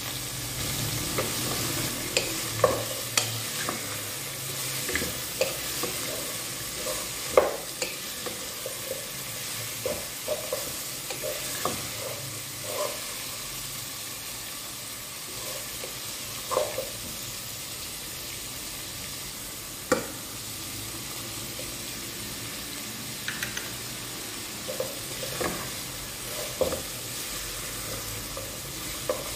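Mutton and sliced onions sizzling in a pot while being stirred with a wooden spatula, which knocks and scrapes against the pot at irregular moments, most sharply about 7 and 20 seconds in.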